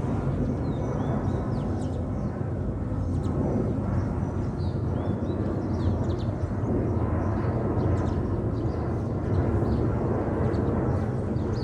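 Steady, distant low rumble of an Airbus A330 jet airliner cruising high overhead, heard from the ground, with small birds chirping in short calls throughout.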